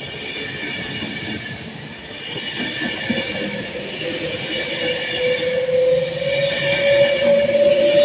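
A train running at a station platform, with a steady high whine and, from about three seconds in, a lower tone rising slowly in pitch as the sound grows louder.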